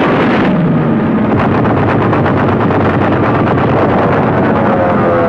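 Loud, continuous battle sound of rapid gunfire, shots following one another several times a second, with heavier blasts mixed in. A low falling tone runs under it about a second in.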